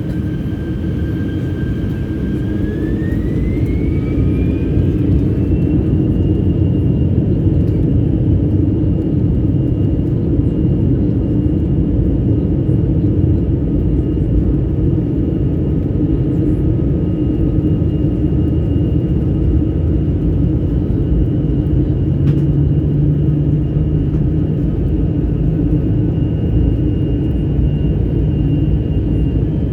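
Airbus A321 jet engines spooling up to takeoff thrust, heard from inside the cabin. A whine rises in pitch about three seconds in and then holds steady over a loud rumble.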